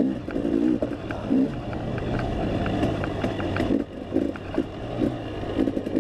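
Dirt bike engine revving up and down as the throttle opens and closes, with short sharp clicks and knocks over it.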